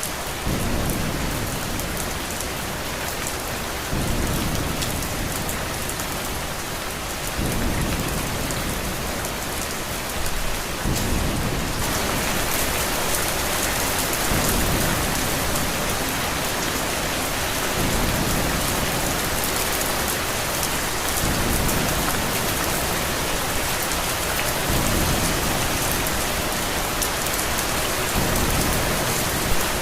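Steady rain with low thunder rumbles swelling up every three to four seconds. About twelve seconds in, the rain turns heavier and brighter.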